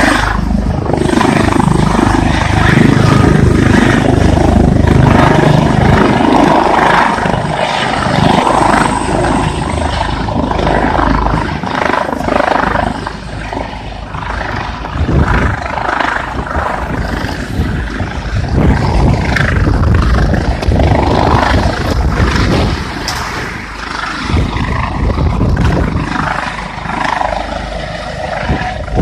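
Air ambulance helicopter's rotor and engine noise mixed with heavy wind buffeting on the microphone, the loudness rising and falling.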